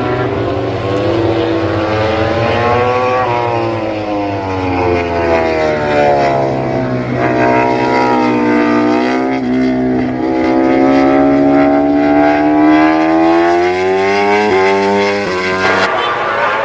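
Racing motorcycle engines running at high revs, their pitch sliding down and then back up several times as they change speed, with no break for the whole stretch.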